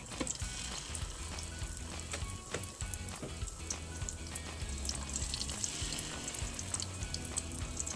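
Breaded potato slices deep-frying in hot cooking oil in a pan: a steady sizzle dotted with many small crackling pops.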